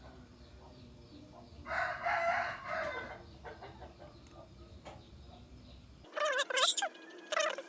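Rooster crowing, one crow about two seconds in, then a louder run of calls near the end.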